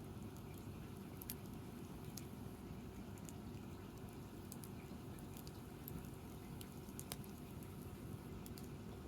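Wood campfire crackling faintly, with scattered sharp pops about once a second over a steady low rumble.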